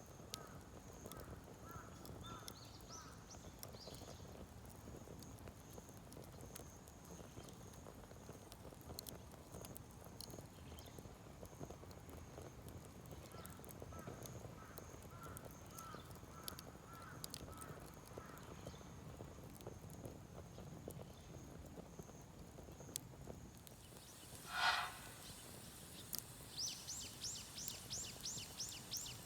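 Wood fire crackling in a kamado shichirin charcoal stove, with small irregular pops and ticks. About 25 seconds in there is one short, louder sound, and near the end a fast series of rising chirps.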